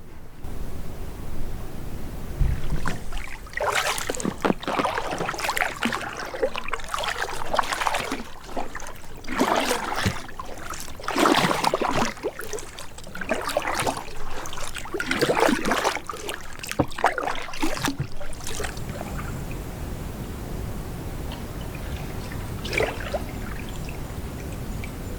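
Water splashing and trickling in a run of irregular strokes, roughly one a second, for about fifteen seconds, then settling to a quieter steady background.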